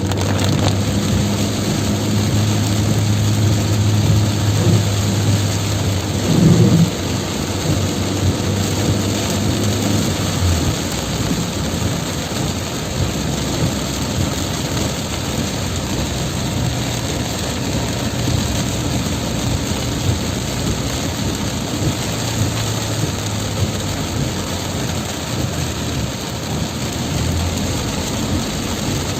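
Heavy rain pouring down, a steady dense hiss, with a low vehicle engine hum under it for roughly the first ten seconds. A brief louder swell comes about six and a half seconds in.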